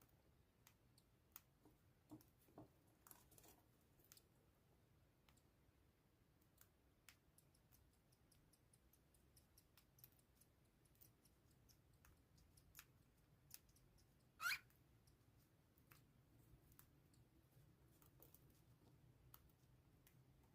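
Faint, scattered clicks and taps of cockatiels pecking and cracking seed, with one short, louder chirp about fourteen seconds in.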